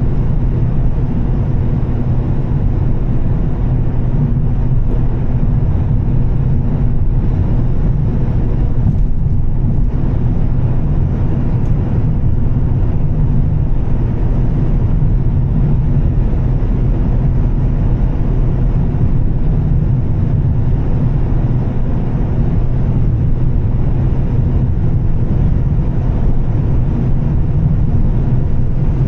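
Volvo S60 T6's turbocharged straight-six with Heico exhaust, holding a steady drone at an even cruise, mixed with road noise. The pitch and level stay almost unchanged throughout.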